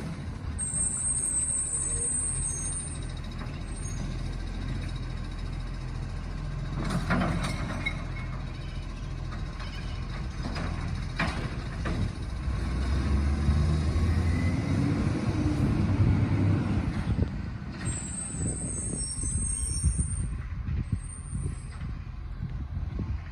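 Garbage truck's diesel engine running, rising and falling in pitch about 13 to 17 seconds in. Short sharp sounds come about 7 and 11 seconds in, and a thin high tone comes twice.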